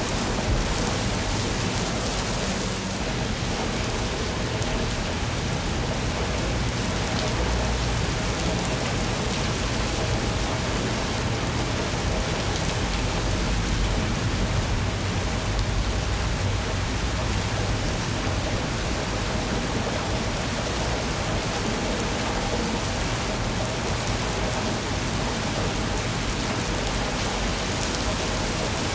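Steady, even rainfall with a low rumble underneath, unchanging throughout.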